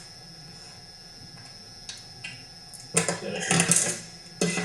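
Metal tools and chainsaw parts clinking and clattering on a workbench, in a quick cluster of sharp clicks about three seconds in and again near the end, after a quiet stretch.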